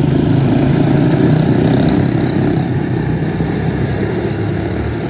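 Quarter midget race car's small single-cylinder four-stroke engine running steadily, loud and close.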